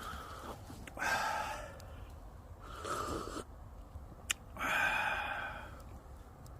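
Three breathy exhalations like sighs, each about a second long, with a single sharp click just before the last.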